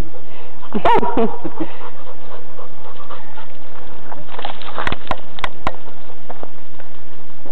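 A dog panting, with a short cry that wavers in pitch about a second in and a few quick sharp sounds around four to six seconds in.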